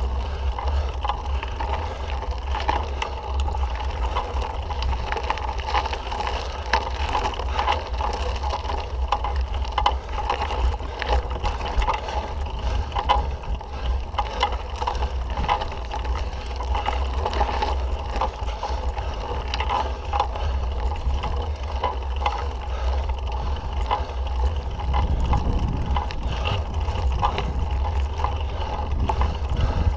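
Mountain bike riding on a dirt trail: the bike rattling and clicking over the ground throughout, with a steady low rumble of wind on the microphone.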